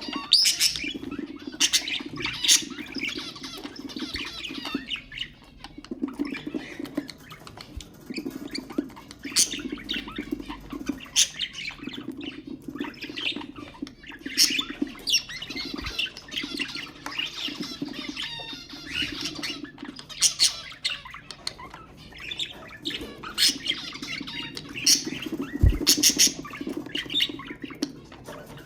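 Budgerigars chattering, with many sharp chirps and squawks in quick succession.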